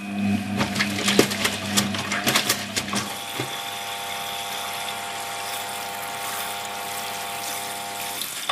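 Hoover HTC 172 washing machine turning its drum during a wash cycle: a motor hum with rattling and clicking for the first three seconds, then a steady motor whine that stops just before the end.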